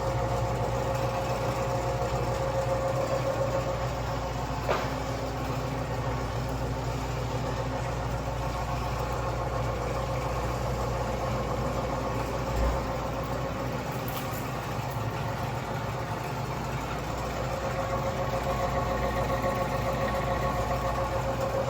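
Commercial meat slicer's electric motor running steadily, a hum with a steady whine over it. A click about five seconds in and a low thump a little past the middle.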